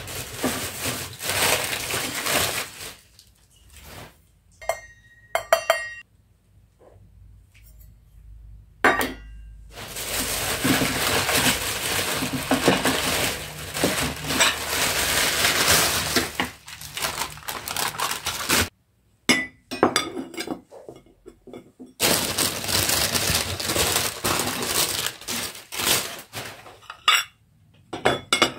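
Dishes and cutlery clinking and clattering, with several long stretches of steady hissing noise in between.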